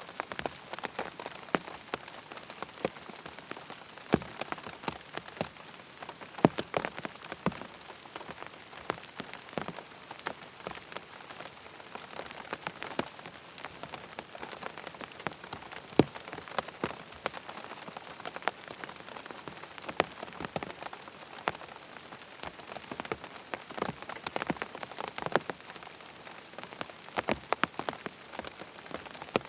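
Steady rain falling, with many sharp drops landing at irregular moments over an even hiss.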